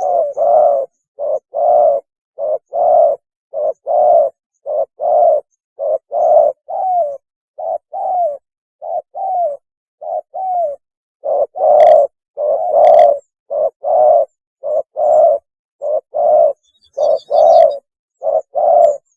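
Spotted dove (tekukur) giving its mating call: short coo notes repeated over and over in quick pairs with brief gaps between, some of the notes bending in pitch.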